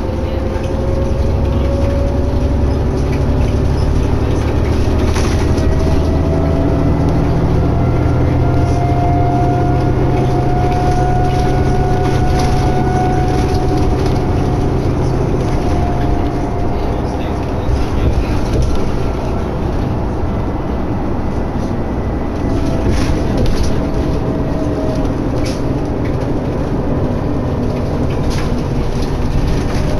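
Interior of a 2011 New Flyer D60LFR articulated diesel bus under way: steady engine and road noise, with a drivetrain whine that rises in pitch over the first several seconds as the bus picks up speed, then holds and fades. A few brief rattles come through.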